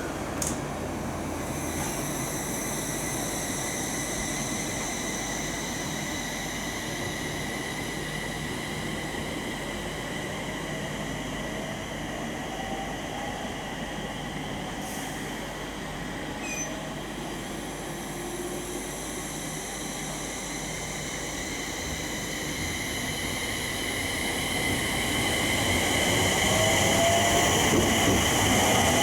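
Electric train of the 701/E721 series family pulling away, its inverter whine rising in pitch, with steady high-pitched ringing tones above it. This is the odd 'hyoo' ring heard from certain trainsets' motor bogies when starting off, which is taken to be electrical rather than mechanical. It grows louder near the end.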